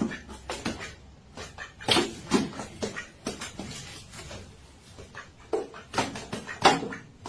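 A cat and a duck scuffling: a run of short, irregular animal sounds and knocks, loudest about two seconds in and again near the end.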